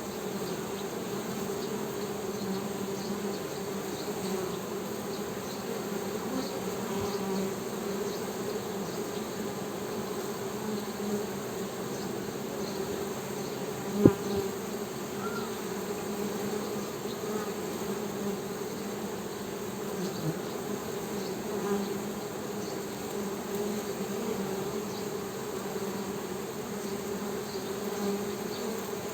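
Honey bees humming steadily, an unbroken buzz with a low pitch and its overtone. About halfway through there is a single sharp click, the loudest sound in the stretch.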